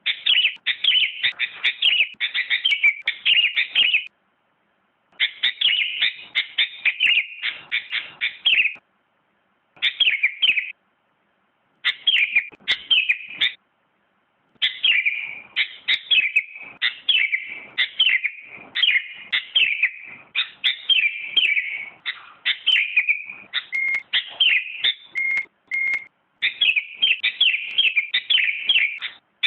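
Sooty-headed bulbul (kutilang) singing: fast runs of bright chirping notes in phrases of a few seconds, broken by short pauses. Near the end come a few single short notes.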